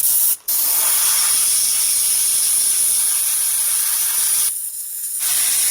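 A loud, steady hiss of pressurized gas jetting from a nozzle. It cuts out briefly near the start and drops away for a moment about 4.5 seconds in.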